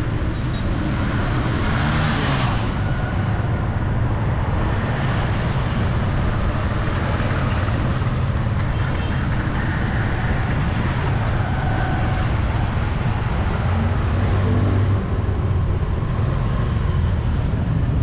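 Steady city street traffic: engines of passing vehicles running in a constant hum, with a brief louder burst of noise about two seconds in.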